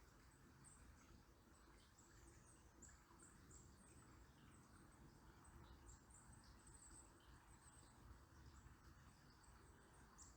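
Faint, very high, thin bird chirps, many short ones scattered throughout, over a faint steady hush of a distant river.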